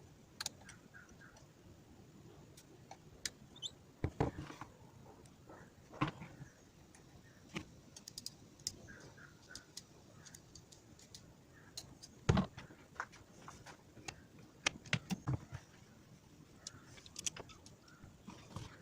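Scattered light clicks, taps and knocks of hand tools and small metal parts being handled, with a few louder knocks about four, six and twelve seconds in.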